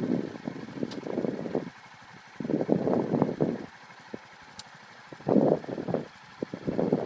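Motorcycle engine noise coming in uneven surges that drop away to quiet three times, rough and noisy rather than a steady tone.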